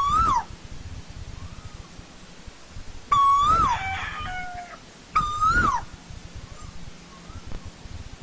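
Asian koel (tu hú) calling: loud, short, pitched calls that rise and then drop, three of them a couple of seconds apart. Fainter answering calls of the same shape come in between.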